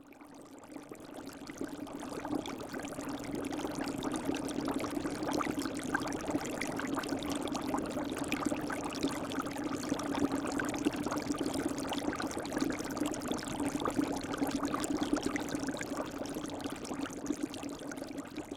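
Bubbling, pouring water sound effect, like a cauldron, with many small crackling pops; it fades in over the first few seconds and fades out near the end.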